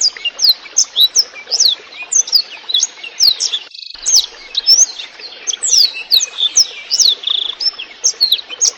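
Blackthroat (black-throated canary) singing a fast, clear song of quick, sharply falling whistled notes over a steady trickle of water, with a brief gap about four seconds in.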